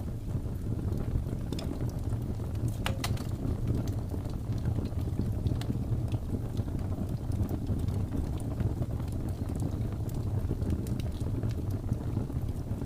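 Fireplace crackling: scattered sharp pops and snaps, one stronger crack about three seconds in, over a steady low rumble of blizzard wind.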